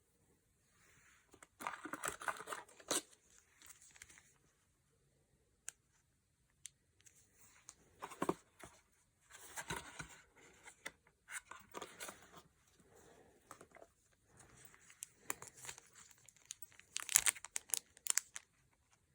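Packaging being torn open and crinkled by hand, in several bursts of tearing and rustling with short sharp crackles and quiet gaps between, the loudest burst near the end.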